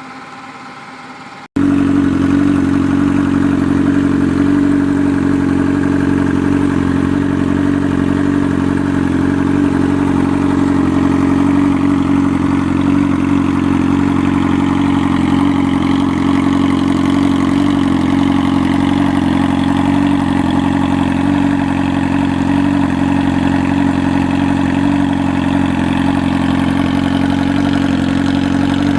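Motorcycle engine idling steadily at an even pitch, cutting in loud about a second and a half in after a fainter stretch of idle.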